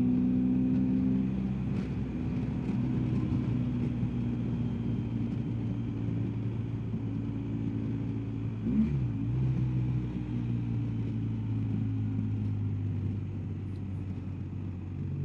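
BMW R1250GSA's boxer twin engine running under way, with a steady rush of riding wind. About nine seconds in, the engine note dips and climbs back briefly, as at a gear change or throttle change.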